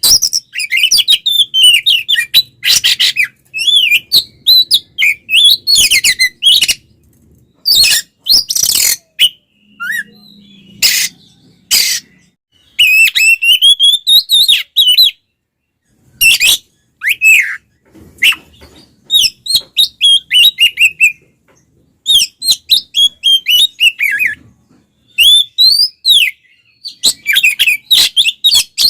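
Oriental magpie-robin giving its aggressive fighting song: rapid, loud phrases of varied whistled notes mixed with harsh rasping calls, broken by a few short pauses.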